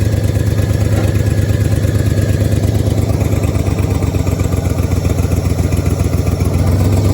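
Dodge Dakota pickup's engine idling steadily, with an even, rapid pulsing beat.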